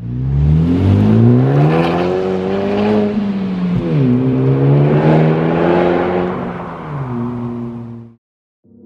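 Honda Civic Type R's turbocharged 2.0-litre four-cylinder engine pulling hard, its note climbing, dropping sharply about four seconds in as at a gear change, then climbing again and levelling off before cutting off shortly before the end.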